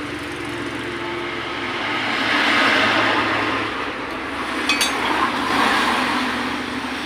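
Honda Click 125 scooter engine running, its sound swelling twice, with a short metallic clink a little past the middle.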